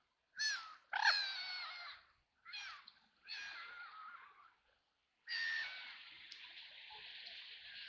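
White ducks quacking: four harsh calls in the first four seconds, the second one longest. A steady hiss starts suddenly about five seconds in.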